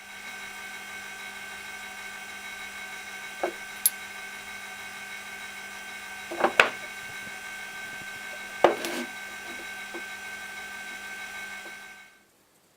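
Workshop machine tool running steadily, a hum with a fixed whine, with a few sharp metallic knocks and clicks: one about a third of the way in, a pair about halfway, one about two thirds in. It cuts out shortly before the end.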